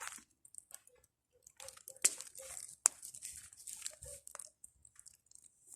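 Bonfire of pruned tree branches crackling faintly, with irregular small pops and two sharper snaps, about two and three seconds in.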